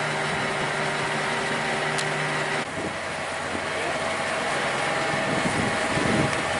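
Boat's engine running steadily under way, with water and wind noise; its hum changes pitch suddenly about two and a half seconds in.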